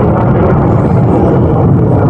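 Jet aircraft engine noise, loud and steady.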